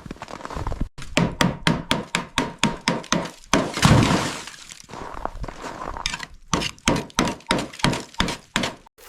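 Rapid, irregular series of sharp cracks, knocks and clinks of hard, brittle material breaking, about three to four a second, with a louder crunching stretch about four seconds in.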